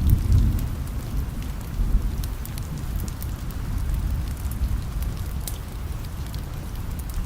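Steady rain with a low rumble beneath it, and scattered sharp crackles of a wood fire burning in a fireplace.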